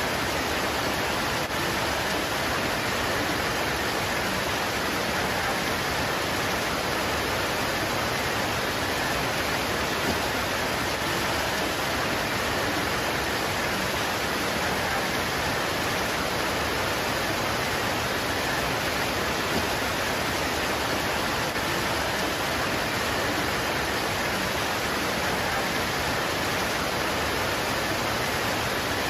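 Steady heavy rain falling on leaves, an even hiss of drops.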